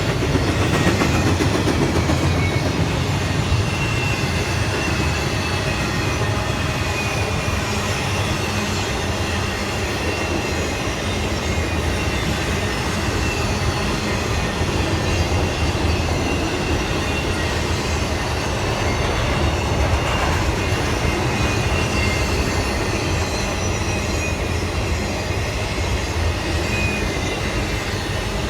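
Railroad cars rolling past on the rails: a steady rumble and clatter of wheels on track, with a faint high wheel squeal above it.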